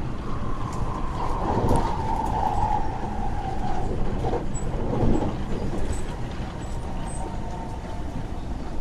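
Running noise of a West Rail Line electric train heard from inside the car at speed: a steady rumble, with a high whine that falls slowly over the first few seconds and returns faintly near the end.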